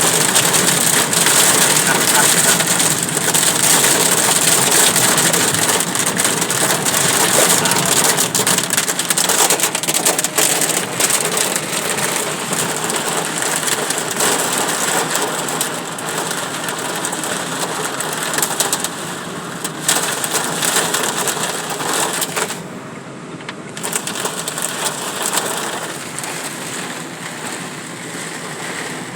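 Hail and heavy rain pelting a car, a dense clatter of small impacts over a steady hiss that slowly eases off toward the end.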